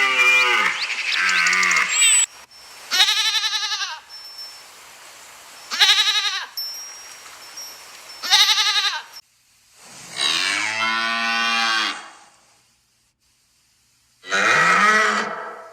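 Farm animals calling: a low call ending about two seconds in, then three short wavering calls a few seconds apart, a longer call around ten seconds in, and another near the end.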